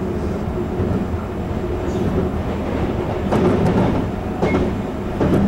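Taiwan Railway EMU700 electric multiple-unit train running along the line: a steady low rumble of wheels on rail, with a few short clatters a little past halfway.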